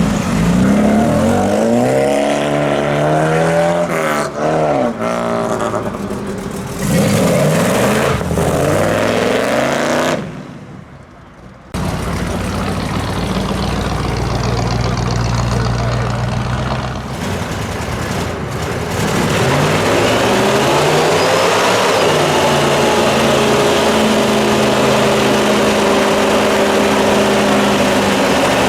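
Muscle cars and hot rods revving and driving off one after another, their engine notes rising and falling as they pull away. There is a brief lull about ten seconds in, then steadier engine running with a few more rising revs.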